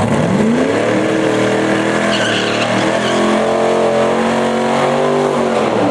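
A drag car's engine accelerating hard: the pitch climbs over the first second, holds high with small shifts, then falls away near the end.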